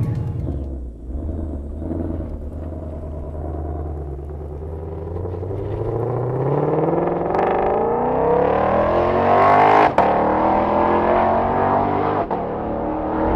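2020 Ford Mustang Shelby GT500's supercharged 5.2-litre V8, exhaust in its loudest mode, accelerating hard. The engine note climbs steadily for several seconds, breaks sharply at a quick dual-clutch upshift about ten seconds in, and drops lower, with another brief break near the end.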